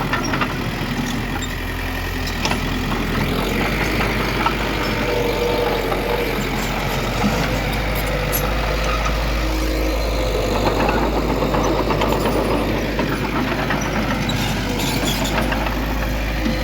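Heavy diesel engine of earthmoving machinery running steadily at a low rumble, with faint metallic clicks and clatter over it.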